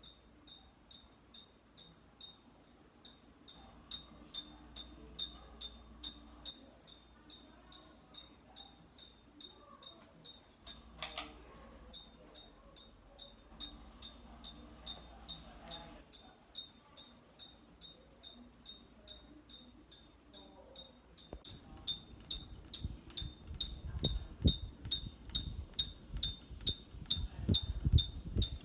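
1998 Hampton Bay Florentine ceiling fan, made by SMC, running on high with an even ticking of about three ticks a second over a faint hum. In the last several seconds the ticks get louder, with low thuds.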